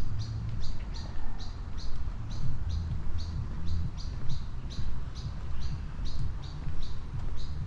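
A bird chirping steadily, about three short high chirps a second, over low rumble and regular footsteps.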